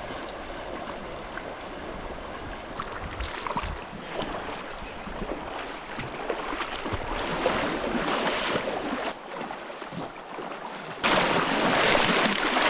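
A swollen river rushing, with splashing as people wade across it. Near the end the rush of water suddenly gets much louder.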